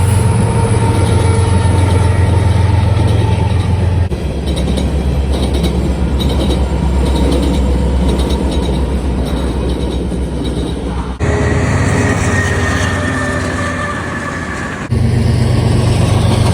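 Freight train with diesel locomotives passing: a low engine drone under rumbling wheel-and-rail noise, in several spliced takes that change abruptly at about 4, 11 and 15 seconds.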